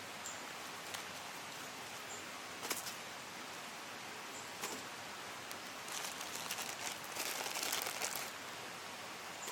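Steady rushing of a small mountain stream, with a few sharp clicks and, past the middle, about two seconds of dense crackling.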